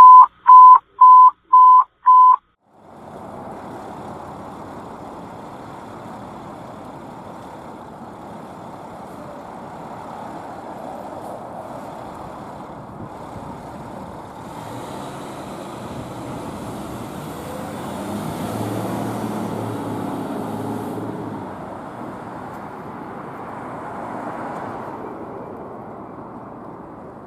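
Five loud, evenly spaced electronic beeps, then a fire engine's diesel engine running as the truck moves off, with road and traffic noise; the engine grows louder for a few seconds past the middle and then eases off.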